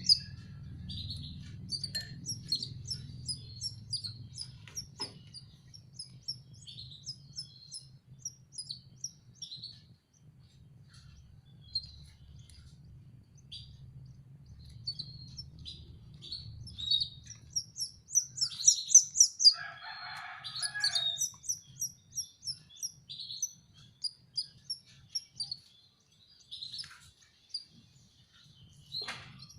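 Canary chicks cheeping: rapid runs of short, high-pitched begging calls to be fed, with a louder burst about two-thirds of the way through.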